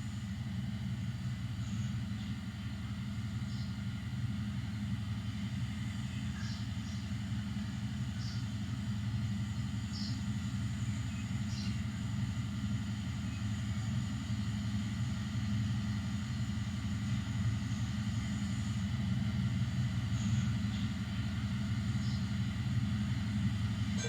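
Diesel engine of a full-size panoramic railcar idling steadily, a low, even drone.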